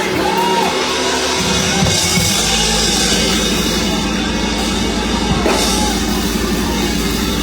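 Loud live band music with a drum kit. A deep, steady bass comes in about two and a half seconds in.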